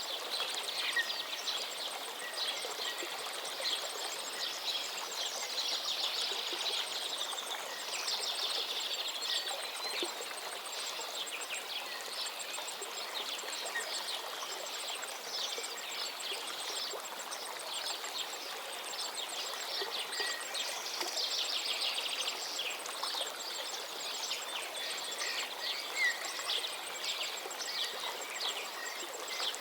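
A river flowing steadily, with birds chirping over the water.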